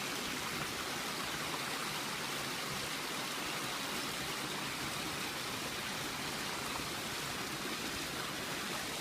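A babbling brook: shallow water running and bubbling over stones with a steady, even rush.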